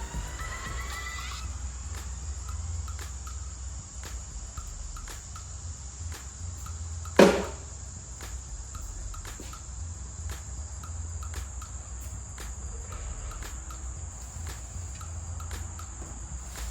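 A steady low hum with faint, evenly spaced chirps about two a second, and one sharp, loud knock about seven seconds in.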